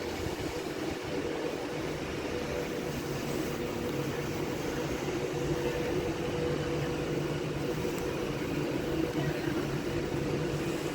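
A train's steady hum at a station, even throughout with a few held tones.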